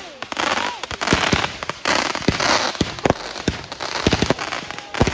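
Fireworks going off in quick succession: many sharp bangs, several close together, over repeated bursts of hissing.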